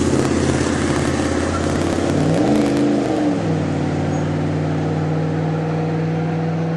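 Truck engine running steadily, with its pitch rising and falling once about two and a half seconds in before it settles into an even run.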